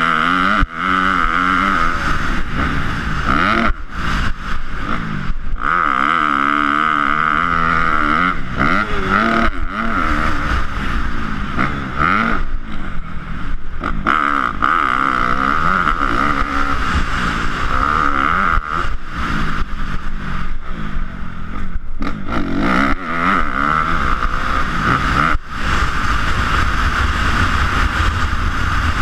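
Motocross dirt bike engine revving up and down, its pitch repeatedly rising and falling as the throttle opens and closes.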